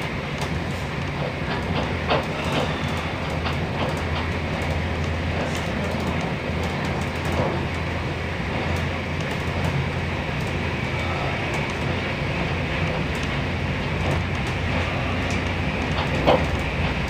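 Passenger train running at speed, heard from inside the carriage: a steady low rumble and rushing hiss, with a few sharp clicks scattered through it.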